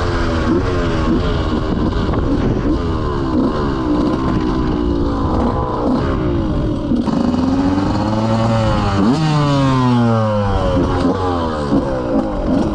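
KTM 125 motorcycle engine pulling hard through the gears, its pitch repeatedly climbing and dropping back at each shift, with a longer fall in revs about nine seconds in before it picks up again.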